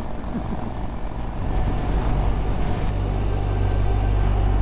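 BMW motorcycle on the move: engine and wind noise, growing louder about a second and a half in.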